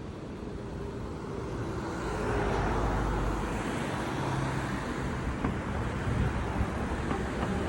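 Road traffic noise: a motor vehicle running, growing louder over the first two or three seconds and then holding steady.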